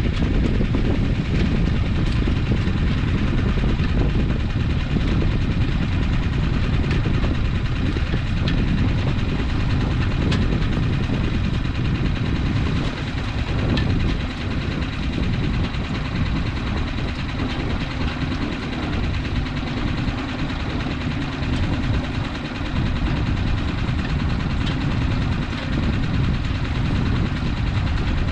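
A sailboat's engine running steadily at low throttle while under way.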